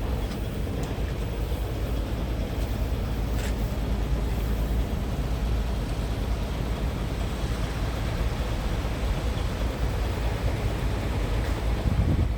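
Scania R tractor unit's diesel engine running, a steady low rumble that swells slightly near the end.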